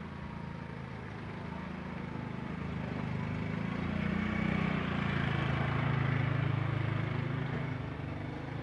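A motor vehicle's engine passing by, its low hum growing louder to a peak about halfway through and then fading a little.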